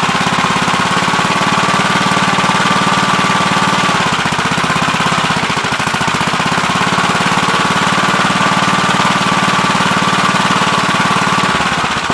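Gravely Terramite backhoe running hard while digging: a steady, fast engine rumble with a high hydraulic whine over it that holds, cuts off about four seconds in, then comes back and cuts off again near the end.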